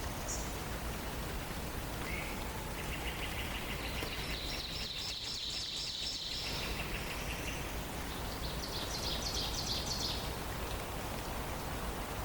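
Forest songbirds singing: a rapid trill starting about three seconds in, overlapped by a higher trill, and another high trill near ten seconds, over a steady rain-like hiss.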